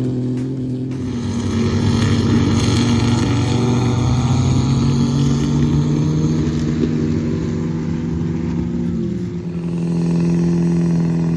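Truck engine running loudly and steadily at raised revs, its pitch easing down to a lower steady note about nine seconds in.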